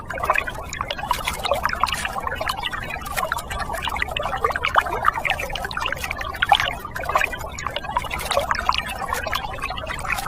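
Water pouring and splashing, a steady irregular patter.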